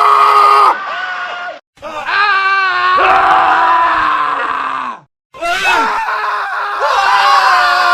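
Men screaming, one scream after another spliced back to back: a first scream cuts off under a second in, then after a short silence a second scream runs about three seconds with a wavering pitch, and after another short silence a third begins.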